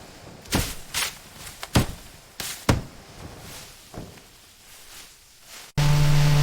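Six or so irregular thuds and knocks. Near the end a small engine, a chainsaw, cuts in abruptly and runs loud and steady.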